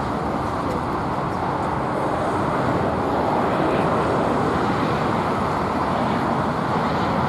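Jet airliner engines making a steady rushing roar that grows a little louder partway through.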